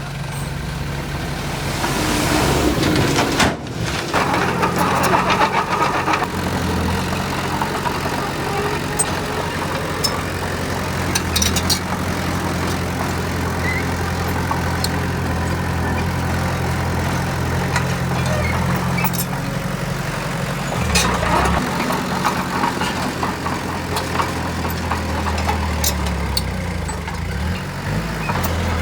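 Heavy diesel earthmoving machine running steadily, its engine note shifting about two-thirds of the way through, with a few sharp clicks.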